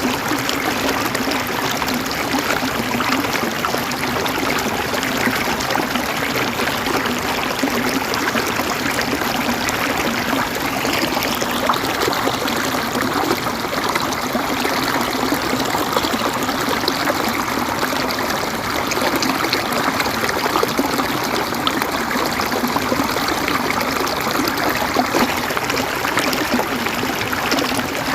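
River water flowing and gurgling over rocks in a steady, even rush.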